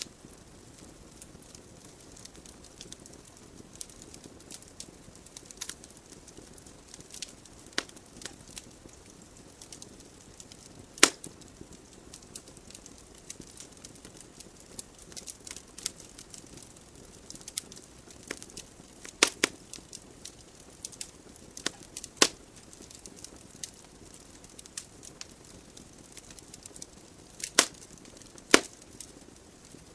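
Wood fire burning in a fireplace: a low steady hiss with irregular crackles and sharp pops, the loudest pops about a third of the way in and a few near the end.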